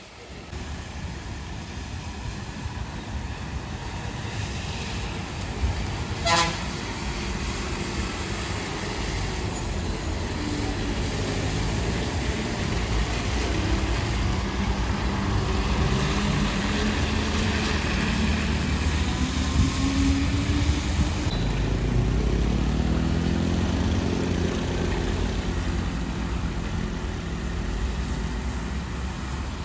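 Heavy diesel engines of a truck and bus running through a slow hairpin turn on a mountain road, with a short horn toot about six seconds in. Past the middle the engine note climbs as a vehicle pulls away under load.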